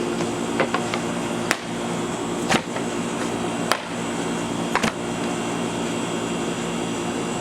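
A stick striking a painting on its frame, sharp blows about once a second that stop about five seconds in, over a steady mechanical hum.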